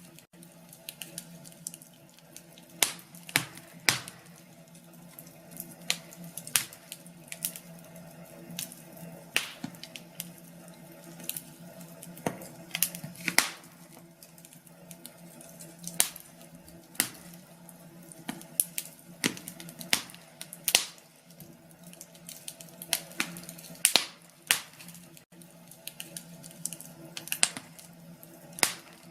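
Wood fire in a fireplace crackling, with irregular sharp pops, some several a second and some a second or more apart, over a faint steady low hum.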